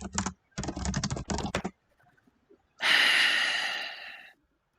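Rapid computer-keyboard typing for about a second, then a loud, long breath blown out into the microphone that fades away over about a second and a half.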